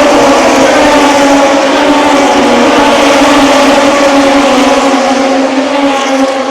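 Racing motorcycle engines at high revs, a loud sustained engine note that falls slowly in pitch.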